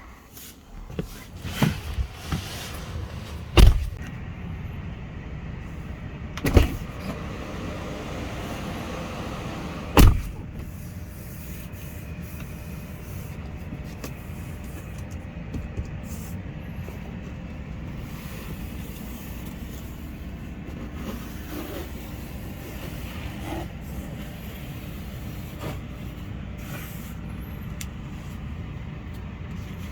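Handling of a Tesla Model 3: a few loud thumps in the first ten seconds, like doors or lids shutting, then a steady low hum.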